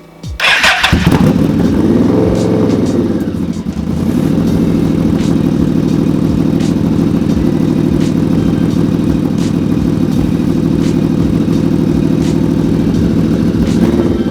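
Yamaha V-Max's V4 engine cold-started after winter storage: a brief whir of the starter, the engine catches within a second, rises and falls in one short rev, then settles into a steady idle.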